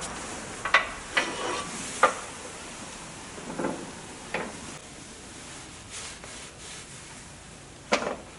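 A handful of scattered knocks and clicks, about six, irregularly spaced, with some rubbing between them: parts or tools being handled during the work.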